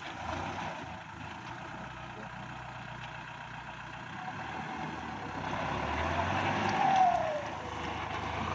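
Kubota L5018 tractor's diesel engine running steadily; the sound grows louder about five seconds in, with a brief falling whine near seven seconds.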